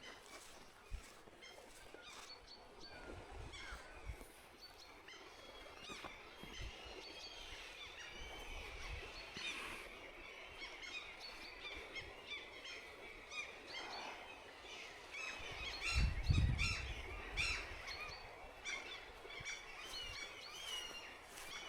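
Many short bird chirps and calls, coming thickest in the second half. Low rumbles come and go underneath, the loudest about sixteen seconds in.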